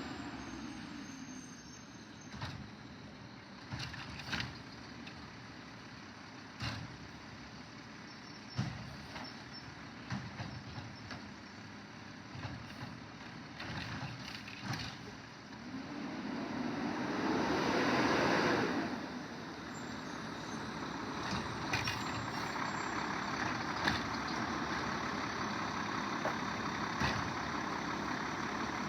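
Garbage truck at work on a curbside pickup: engine running, with scattered clanks and knocks. A little past the middle, a louder swell rises and falls over about three seconds.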